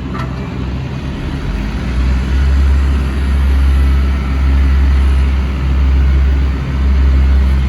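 Road rollers' engines running while they compact fresh asphalt: a steady hum with a deep rumble that grows louder about two seconds in, then swells and dips every second or so.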